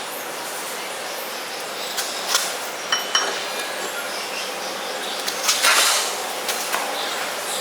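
A few scattered metallic knocks and clinks over a steady hiss, the loudest a little before the end.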